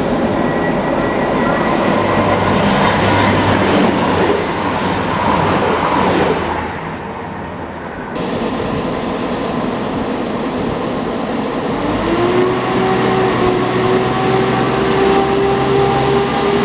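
A train running, a steady noisy rumble that eases briefly about seven seconds in. From about twelve seconds in, a drone rises in pitch and then holds steady as the train's engine or motors take up power.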